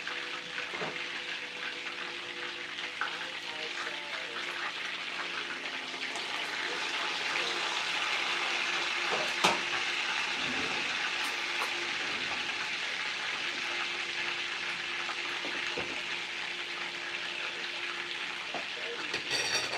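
Chicken sizzling in oil in a frying pan: a steady hiss that grows louder midway, with one sharp click about nine and a half seconds in.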